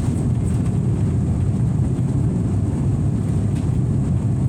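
Steady low rumble of an airliner's engines and airflow heard inside the passenger cabin, even in level throughout.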